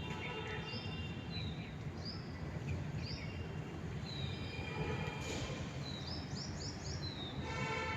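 Small birds chirping: short high calls about every second, with a quick run of five notes about six seconds in. A steady low background rumble runs underneath.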